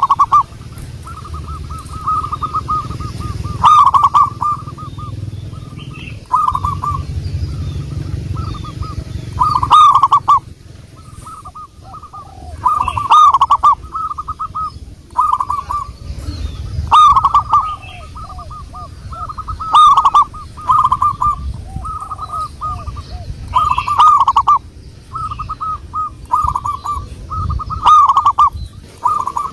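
Zebra dove (perkutut) cooing: loud phrases of rapid, trilling notes, repeated every few seconds.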